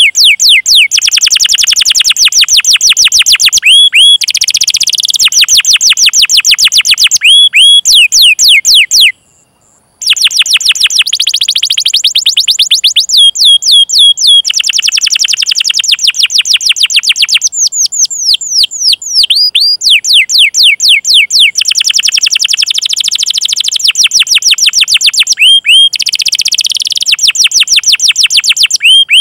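Domestic canary singing: long rolling trills of rapid repeated notes alternate with series of sweeping downward 'cuit cuit' chirps. The song breaks off for about a second about nine seconds in, then resumes.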